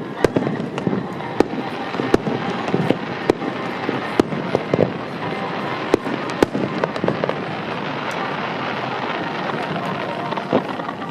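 Aerial fireworks going off: sharp bangs of bursting shells at irregular intervals over a dense crackle of many smaller bursts. The bangs thin out in the last few seconds, leaving mostly the crackle.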